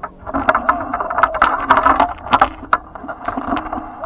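Spotted doves cooing, short bending coos, under many sharp clicks and rattling that are the loudest thing heard.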